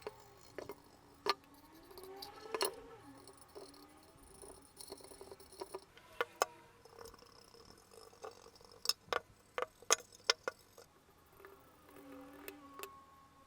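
Workshop handling noises: scattered light clicks and taps, bunched together in the middle, with faint squeaks between them, as small parts are handled and worked on.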